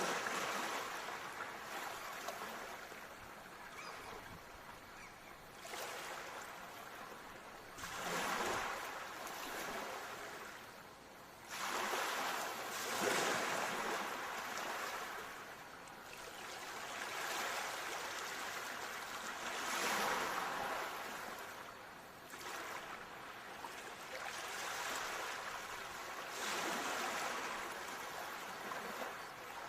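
Ocean waves breaking and washing up on a shore, swelling and falling away every three to four seconds.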